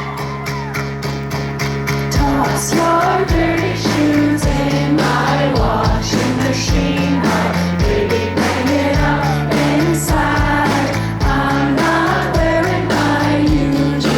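Live band playing a pop-rock song with a steady drum beat and bass, and a woman's lead vocal coming in about two seconds in.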